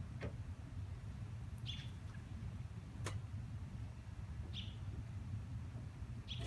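Quiet background with a steady low rumble, three short high bird chirps about three seconds apart, and a single sharp click about three seconds in.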